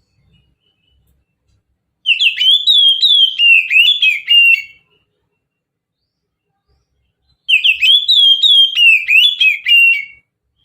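Oriental magpie-robin (kacer) singing two phrases of quick, downward-slurred whistled notes, each about two and a half seconds long, separated by a few seconds of silence.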